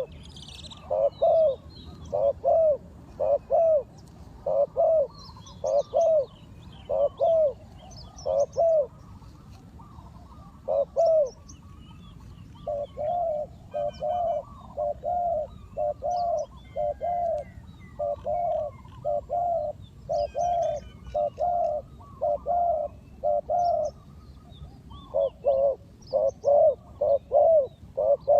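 Spotted doves cooing: low, arched coo notes repeated in pairs and short runs, loud at first, a softer steady series through the middle, then loud again near the end. Faint chirps of small birds sound higher up.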